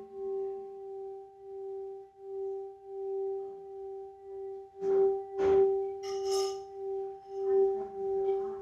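Singing bowl holding one steady low ringing tone with a fainter higher overtone, swelling and fading about once a second. A few brief rustling noises come about five seconds in.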